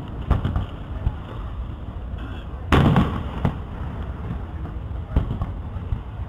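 Fireworks shells bursting aloft in a few scattered bangs, the loudest about two and a half seconds in, followed by a rumble lasting most of a second.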